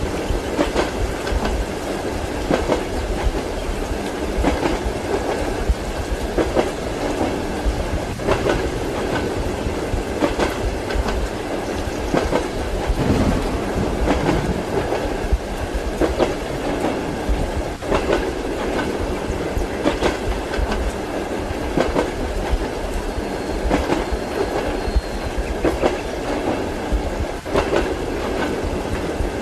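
Railway carriage rolling along with a steady rumble, and the wheels clacking over rail joints every second or so at uneven intervals.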